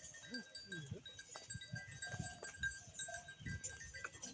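Livestock neck bells clinking again and again, with short low animal calls among them.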